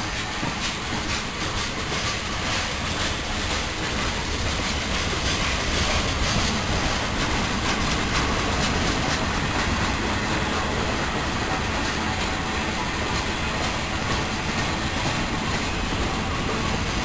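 Freight cars of a mixed freight train (tank cars, a boxcar and a covered hopper) rolling past close by. Their steel wheels make a steady rumble on the rails, with clicking as they pass over the rail joints.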